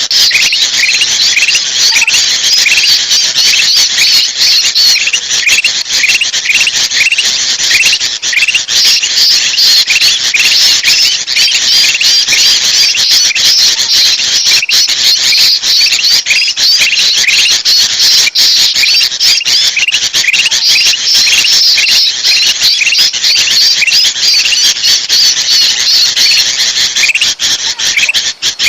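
Dense, nonstop chorus of bulbul alarm chatter: the agitated ('ribut') calls of sooty-headed bulbuls mixed with kutilang emas bulbuls, a bird-trapping lure recording. Short upward chirps repeat about twice a second beneath a thick layer of higher, overlapping chatter.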